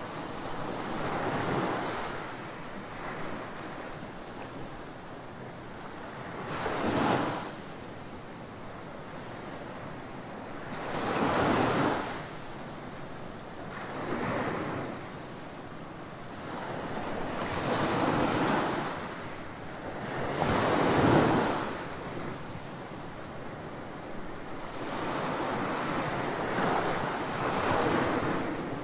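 Ocean waves breaking on a beach: a steady wash of surf, with a wave surging and breaking every few seconds, the loudest about two-thirds of the way through.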